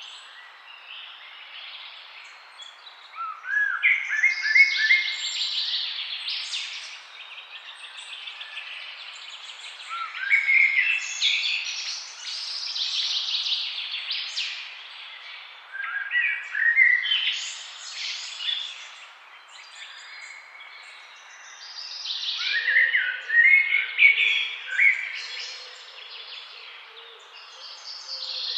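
Songbird singing: a phrase of quick rising notes breaking into a rapid jumbled warble, repeated about every six seconds, with softer calls between and a faint steady hiss underneath.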